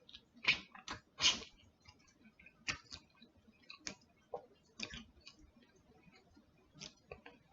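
Faint, irregular wet clicks and smacks of someone chewing and smacking their lips on a sauce-covered chicken wing.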